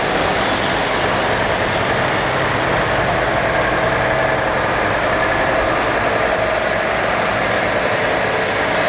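Heavy trucks' diesel engines running steadily as the trucks drive past.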